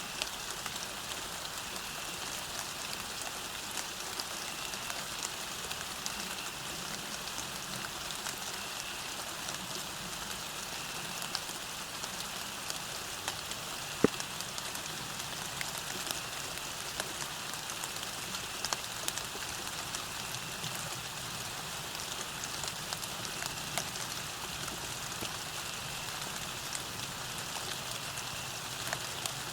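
Steady rain falling on a path, a constant hiss dotted with many small drop ticks, with one sharper drip about 14 seconds in.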